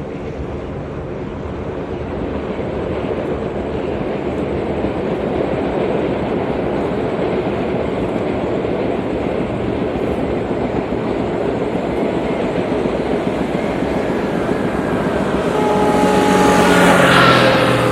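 A metre-gauge train running by, its noise growing steadily louder. About three-quarters of the way through, a steady pitched tone with several overtones joins in and the sound peaks near the end.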